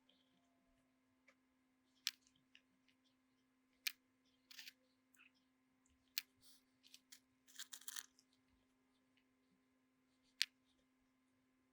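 Small parts and tools being handled on a workbench: scattered sharp clicks and taps, with two brief scraping rustles near the middle, over a faint steady hum.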